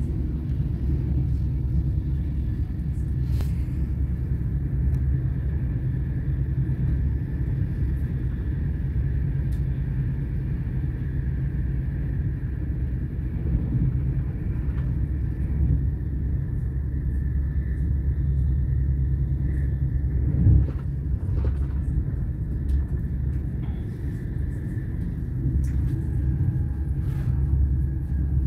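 Running noise of a Stadler KISS (RABe 511 RegioDosto) double-deck electric multiple unit, heard inside the passenger compartment: a steady low rumble with a faint steady higher tone and scattered light clicks. There is a brief louder knock about twenty seconds in.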